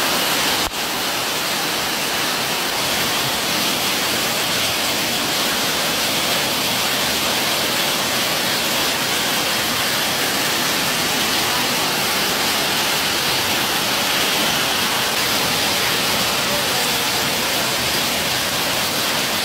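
Heavy rain pouring steadily: a dense, even hiss of a downpour on pavement and awnings.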